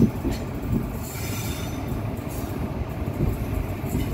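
Train passing close by, its wagons' wheels rumbling over the rails with a few sharp clanks in the first second.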